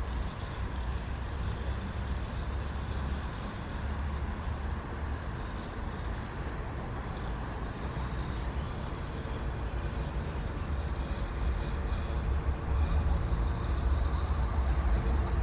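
Steady low rumble of outdoor city noise, growing louder near the end.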